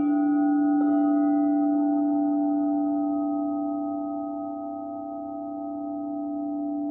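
Crystal singing bowls ringing together: one strong low tone sustains throughout while two higher bowls come in at the start and just under a second in, their tones slowly fading. The blended sound slowly swells and dips in loudness.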